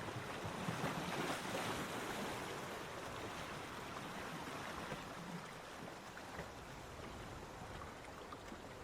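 Sea surf washing on a beach: a wave swells and breaks about a second in, then the wash slowly fades.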